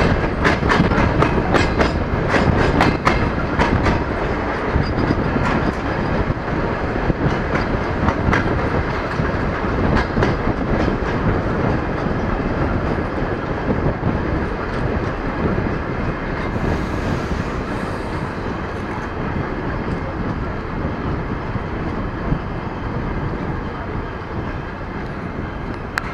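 DR1A diesel multiple unit running, heard through an open window: a steady rumble and rush of air with the wheels clicking over rail joints. The clicks come thickly over the first ten seconds or so, then thin out as the sound slowly gets quieter.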